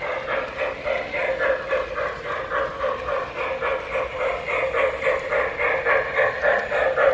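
A three-rail O-gauge model train's sound system plays a loud, rhythmic locomotive chugging, about three to four beats a second.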